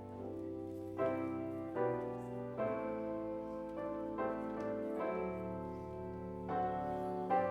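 Slow instrumental keyboard music, likely piano: sustained chords over a held bass, with a new chord struck roughly every second or two.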